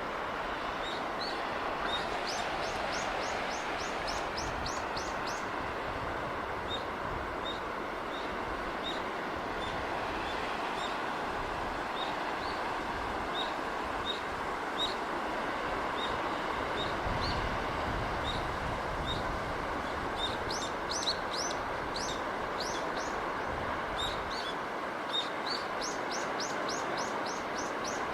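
Small birds chirping over a steady wash of sea wind and surf. One bird repeats a short, high chirp about twice a second, and fast high trills break in several times.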